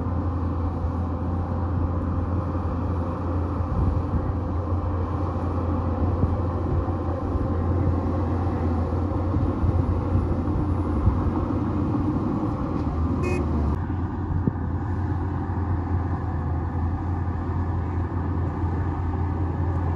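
Heavy diesel engine of a bulldozer running steadily under work, with a strong low hum. A brief click about 13 seconds in, after which the engine note changes slightly.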